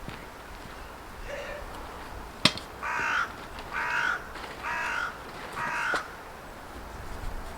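A single sharp click, then a crow cawing four times, about a second apart.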